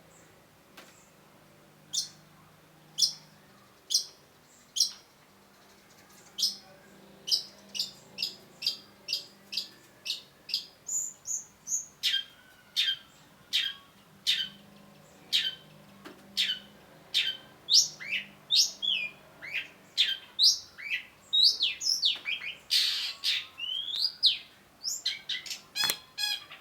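Long-tailed shrike calling in short, sharp notes: a few spaced about a second apart at first, then quickening into a rapid run of calls, some sweeping down in pitch and packed densest near the end.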